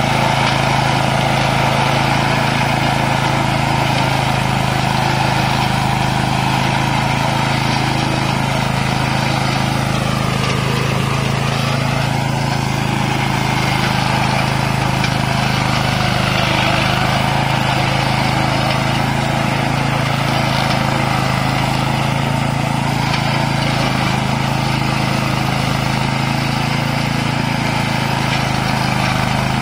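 Remote-controlled tracked robotic mower with a 13 hp Tosaka petrol engine, running steadily as it drives through tall grass and weeds.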